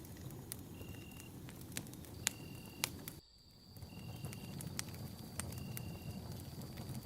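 Campfire burning, a steady low rumble with sharp crackles and pops from the burning wood. About three seconds in the sound drops out for about half a second and then fades back in. A faint, short high chirp repeats about every second and a half.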